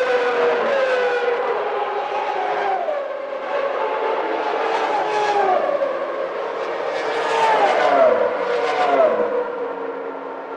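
1991 Formula One cars with naturally aspirated 3.5-litre racing engines running at high revs, one after another. Each engine note falls in pitch as it goes, about four in succession, the loudest near the end.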